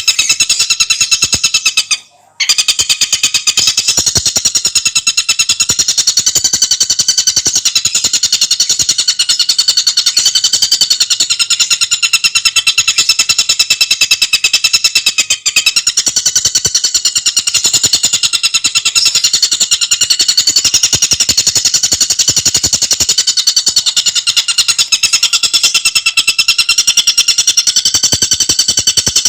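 Tengkek buto bird singing a rapid, unbroken chattering trill of many notes a second, high-pitched, with a brief gap about two seconds in.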